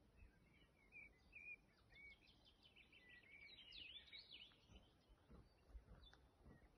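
Faint birdsong from songbirds: scattered short chirps and whistles, thickening into a denser run of song about halfway through.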